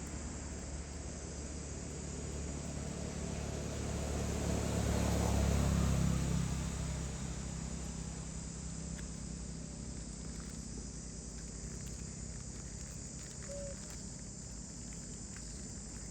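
Steady insect chirring, with a motor vehicle passing: a low rumble that swells and fades about four to seven seconds in.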